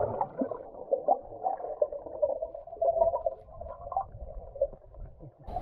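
Muffled underwater sloshing and bubbling heard through a submerged camera, dull and without any highs, in an irregular series of soft gurgles. The sound changes abruptly near the end.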